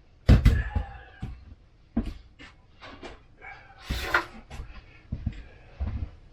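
Knocks and clatter of metal parts being handled while a furnace blower motor is swapped: a series of short bumps about once a second, with a longer scrape about four seconds in.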